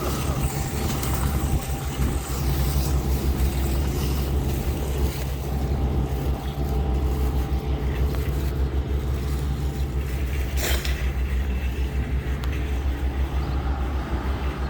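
Steady engine and road rumble heard from inside a moving car, with a brief whoosh about ten seconds in.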